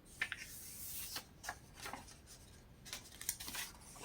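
Pages of a paper catalog rustling as they are turned, in several short crisp rustles.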